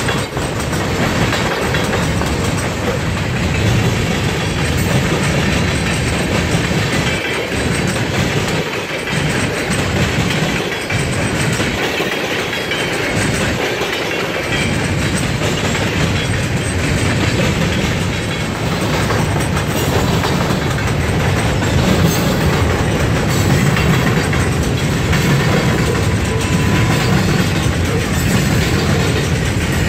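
Freight train cars rolling past: tank cars, a covered hopper and loaded gondolas, with a steady rumble and clatter of wheels on the rails. Wind buffets the microphone with a low rumble that comes and goes.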